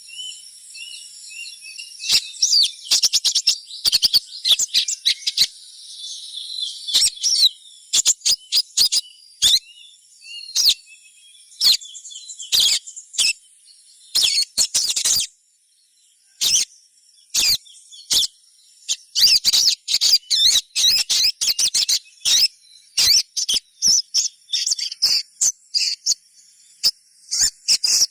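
Sogon (little spiderhunter) calling: rapid sharp chirps in irregular bursts, with a short lull about halfway through. A steady high insect drone runs underneath.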